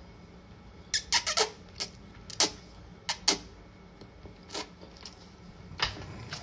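Wet mouth clicks and lip smacks from someone chewing spaghetti close to the microphone: a quick run of sharp clicks about a second in, then a few more spaced out.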